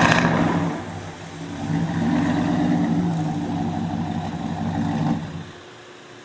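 An engine running with a steady hum and a brief burst of noise right at the start. About five seconds in it cuts off or falls away sharply.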